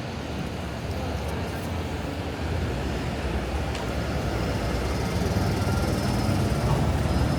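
City street traffic: a steady low vehicle rumble that grows louder through the second half, as of a heavy vehicle approaching.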